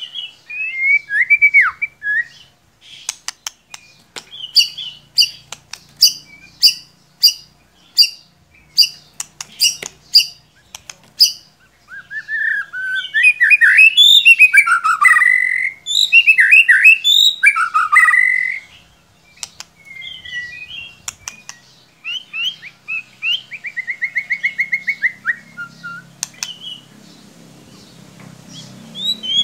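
White-rumped shama (murai batu) singing: a run of sharp ticks about once or twice a second, then loud, varied whistled phrases, then softer phrases with a quick trill near the end.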